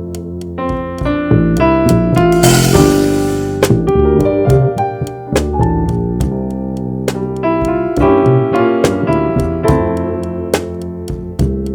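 Jazz trio playing: a keyboard with a piano sound carries the melody and chords over walking bass notes, with light drum kit hits and a cymbal crash about two and a half seconds in.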